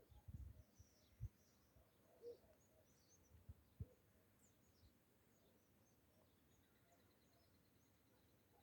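Near silence with faint, scattered bird chirps and a short, even high trill about two-thirds of the way in. A few soft low thumps come in the first four seconds.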